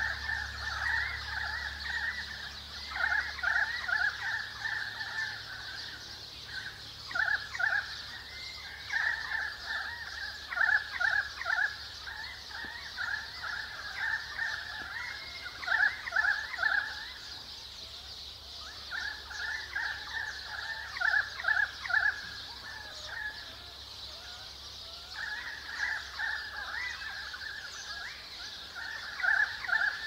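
Currawongs and sparrows calling: bouts of quick repeated notes lasting a few seconds each, with short lulls between them, over a steady high hiss.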